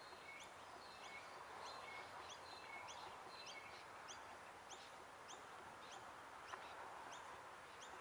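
Faint bird chirping: short, high chirps repeating two or three times a second over a quiet, steady outdoor hiss.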